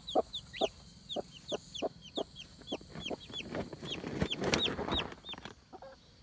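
Chickens clucking in a quick series of short calls, about two or three a second, that stops near the end.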